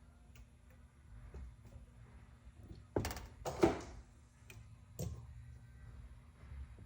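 Valve springs being handled on a Buxton spring tester during a test run: three sharp metal knocks in the middle, the second loudest and ringing briefly, with faint ticks in between.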